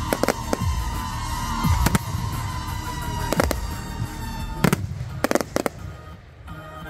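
Aerial fireworks bursting in a string of sharp bangs over music, the bangs ending about five and a half seconds in.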